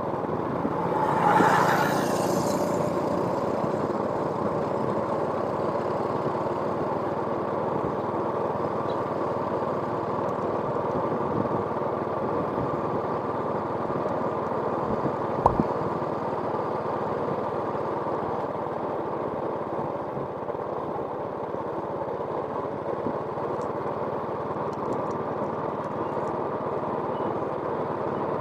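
A steady engine running throughout, with a brief louder swell about a second in and a single sharp knock about halfway through.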